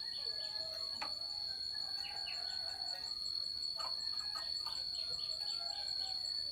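Steady high-pitched insect drone, like crickets, with short scattered bird chirps over it and a few faint clicks.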